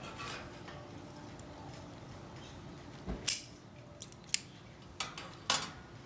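Scissors snipping basket-weaving material: a handful of short, sharp snips and clicks in the second half, the loudest about three seconds in.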